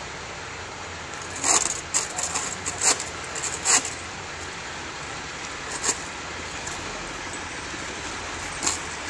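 Steady street traffic noise from passing vehicles, with a cluster of short sharp clicks between about one and a half and four seconds in, and two more later.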